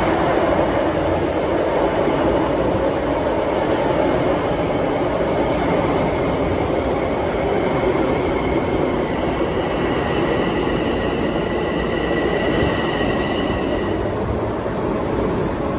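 A train running on the rails with a steady rumble. A faint high whine joins about nine seconds in and stops near fourteen seconds.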